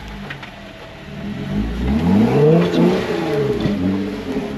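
Off-road 4x4's engine revving under load on a log climb: low for the first second and a half, then revving up and down several times, rising and falling in pitch and getting louder.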